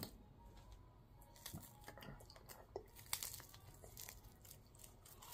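Faint chewing and mouth clicks of someone eating chicken wings, with a few short sharp clicks scattered through. Later on, a wing is pulled apart by hand.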